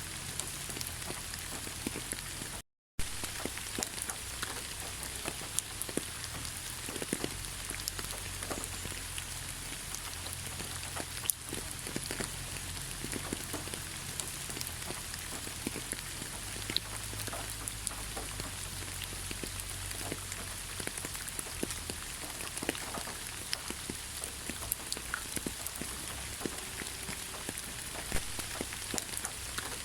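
Steady rain falling, an even patter with many individual drops ticking out sharply here and there. The sound cuts out completely for a split second about three seconds in.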